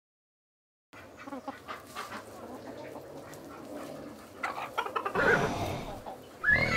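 Farmyard chickens clucking, with small birds chirping, starting about a second in. Louder animal calls come in over the last two seconds.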